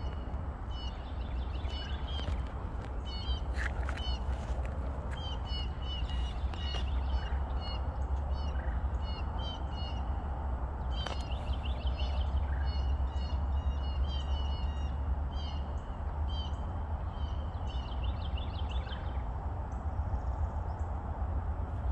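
A songbird calling over and over in short, quick chirps, two or three a second, which stop a few seconds before the end. Under them runs a steady low rumble.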